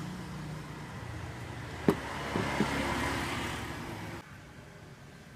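A workshop power tool's motor running steadily with a low hum, with a sharp click about two seconds in and two lighter knocks just after, then it cuts off abruptly near the end.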